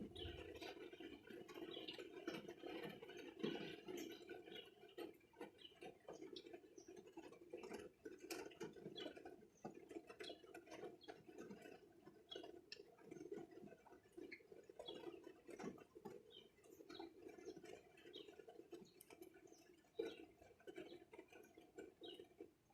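Faint patter of light rain: many small, irregular drip ticks.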